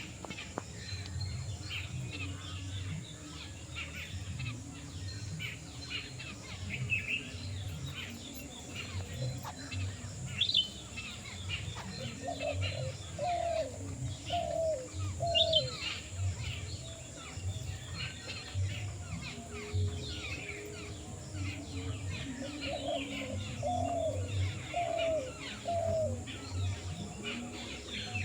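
Several birds chirping and calling, with rapid high chirps throughout. A lower call of four short rising-and-falling notes comes twice, about ten seconds apart, over a steady background hiss.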